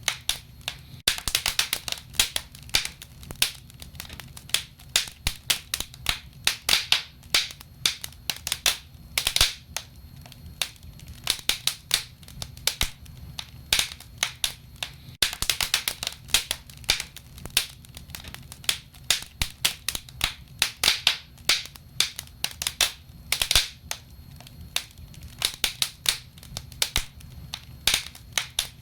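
Wood fire crackling: irregular sharp pops and snaps of burning logs, coming in thicker flurries at times, over a low steady rumble.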